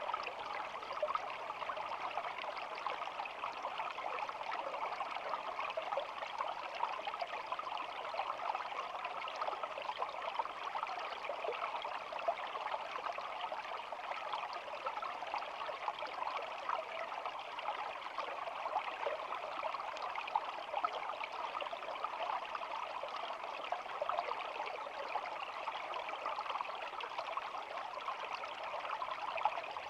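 Small shallow stream flowing and trickling steadily, an even babble with no change.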